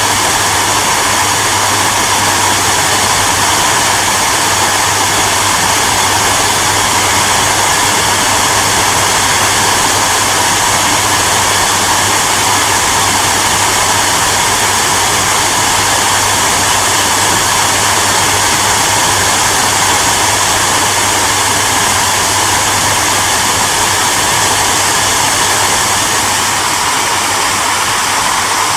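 Hair dryer running steadily: an even, loud rush of blown air with a faint low hum from the motor.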